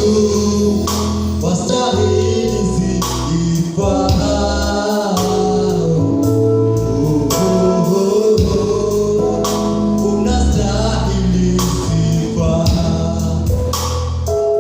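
Gospel worship music: singing over a band with a steady beat of drums and a sustained bass line.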